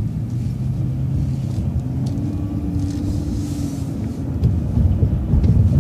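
Vehicle engine and road rumble heard from inside while it makes a left turn. A steady low engine tone runs for about the first two seconds, and a higher whine appears and holds for about two seconds.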